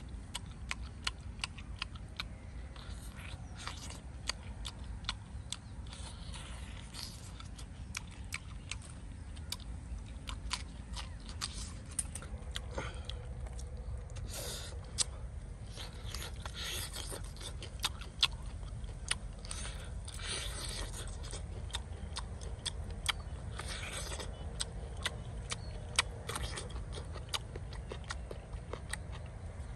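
Close-up eating sounds of roast pig leg and lettuce: lip smacks and chewing clicks throughout, with louder bites and crunches now and then. A steady low rumble runs underneath.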